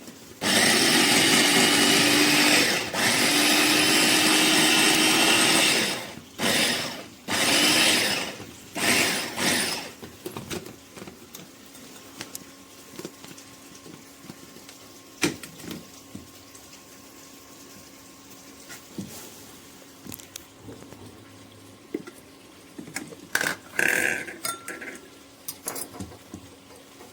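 Wancle 350 W electric food chopper running for about six seconds, with a brief break about three seconds in, then pulsed in several short bursts. Quiet clinks and knocks follow.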